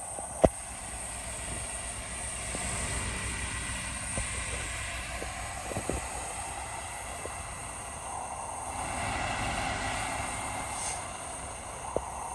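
Heavy earthmoving machinery running steadily, with a few sharp knocks, the loudest about half a second in.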